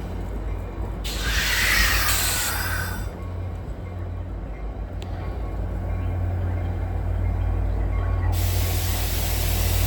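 A train's engine runs with a steady low rumble, with a loud burst of air-brake hiss about a second in that lasts about two seconds. A steady hiss of air starts near the end.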